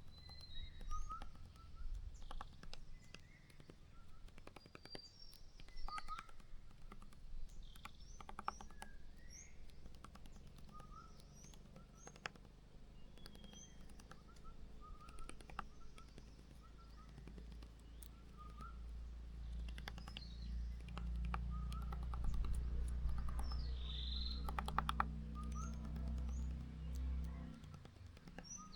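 Small birds chirping with short, repeated call notes, some lower and some high, scattered throughout. A low steady rumble runs underneath and swells in the second half.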